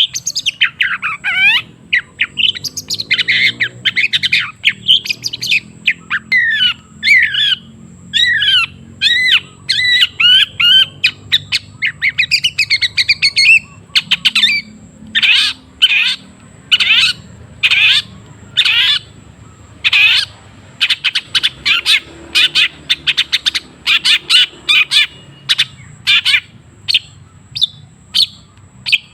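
Long-tailed shrike (cendet) singing a loud, fast, varied string of harsh chirps, squawks and sweeping notes. About halfway through, this gives way to a quicker run of short, clipped notes repeated several times a second.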